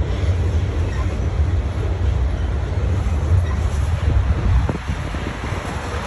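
Freight train rolling past: a steady low rumble of the wagons on the rails, easing slightly near the end.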